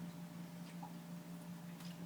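White Java sparrows making faint, scattered light ticks and a few brief high peeps, over a steady low hum.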